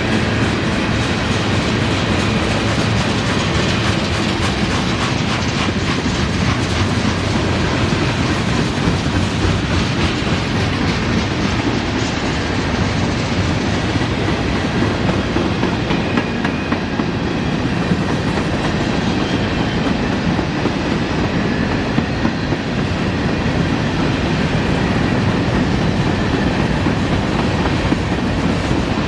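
Train cars rolling past at close range, steel wheels clicking over rail joints in a steady rhythm.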